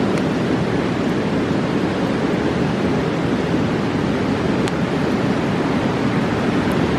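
Steady rushing of a fast-flowing mountain river, with three faint pops from a campfire.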